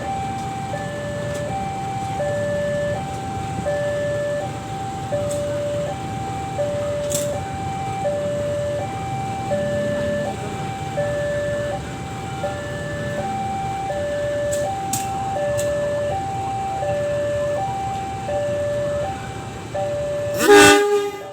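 Railway warning alarm sounding a repeating two-tone hi-lo signal, alternating about twice a second, over the low rumble of rail traffic. A few sharp clicks fall in between, and a loud short blast comes near the end.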